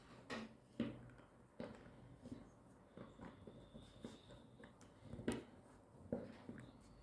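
Faint, irregular light knocks and taps, about five of them spread unevenly, with a faint thin high tone for a moment in the middle.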